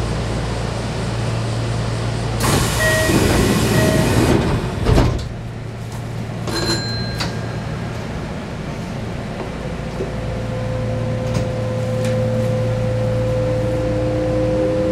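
Kintetsu electric train's sliding passenger doors closing: a loud hiss with two short beeps of the door chime, then the doors thud shut about five seconds in. A short electronic tone follows, and in the last few seconds the traction motors start a slowly rising whine as the train pulls away, over a steady low hum.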